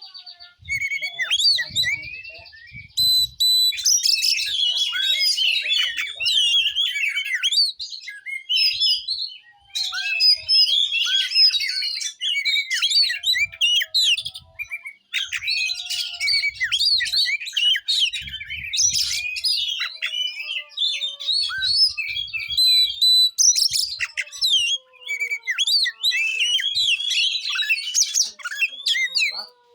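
Oriental magpie-robin (kacer) singing in fighting style: long, rapid bouts of varied chirps, trills and whistled notes, broken by a few short pauses.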